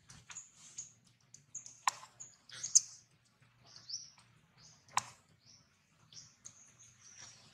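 Birds chirping: many short, high chirps scattered throughout, with two sharp clicks about two and five seconds in.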